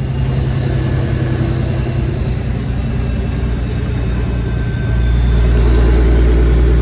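Semi truck's diesel engine droning steadily, heard from inside the cab while driving; the low drone grows louder about five seconds in.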